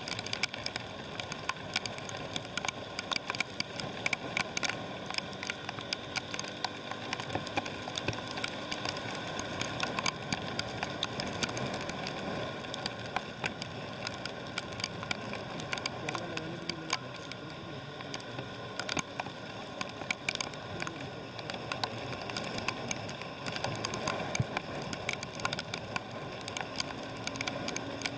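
Rain, with many drops tapping sharply close by, over a steady background hum.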